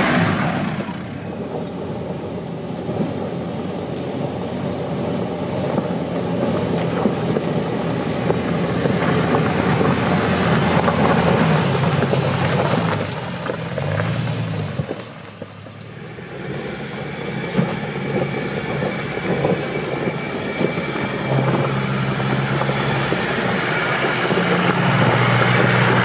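Off-road 4x4 engine running and revving as it works over the track, its pitch rising and falling, with a brief drop about fifteen seconds in before it picks up again.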